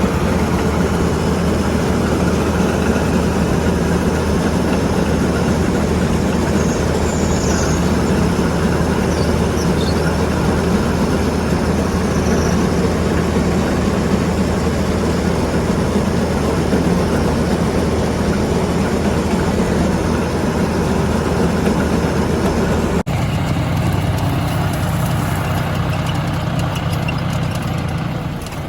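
Heavy diesel farm machinery running steadily and loudly. About 23 seconds in, the sound cuts to a slightly quieter, even low drone.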